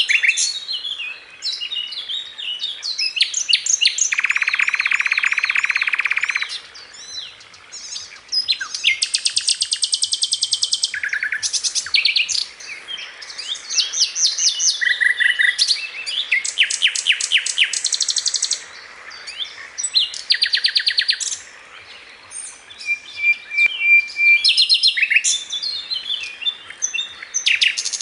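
Sikatan londo flycatcher singing a long, varied song of fast trills, buzzy rattles and short high whistles, with brief pauses between phrases.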